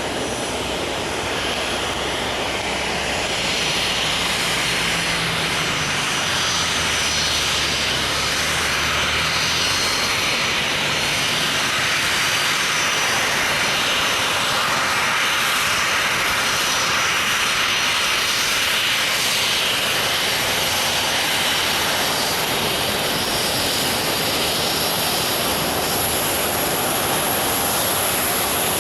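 Boeing 737-300's CFM56 jet engines running steadily at low power as the airliner comes in to the ramp, a constant rushing noise with a thin high whine over it that grows a little louder about four seconds in.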